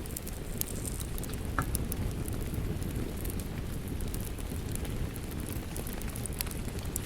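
Wood fire crackling with scattered sharp pops, one brighter pop about a second and a half in, over a steady low rush of rain.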